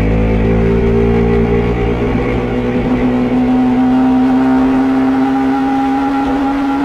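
Yamaha R15 V3 single-cylinder engine running at held revs through its stock exhaust, the pitch settling about two to three seconds in and then creeping slightly higher. The owner says this exhaust has come to sound unusual and doesn't know why.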